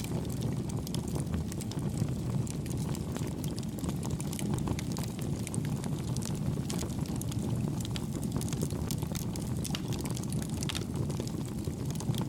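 Campfire burning steadily: a low rushing rumble of flames with many small, soft crackles and pops scattered throughout.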